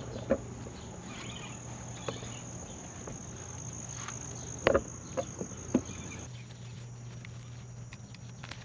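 Crickets chirring in a steady high tone, with a few sharp knocks about five seconds in.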